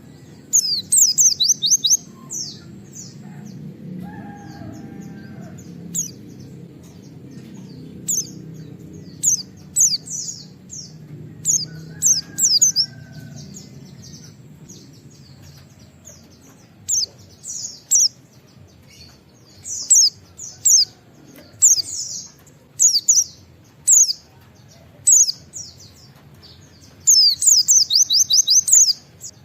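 White-eye (pleci) singing: short, high, downslurred 'wit-wit' notes delivered in quick clusters, some run together in fast strings of six or more.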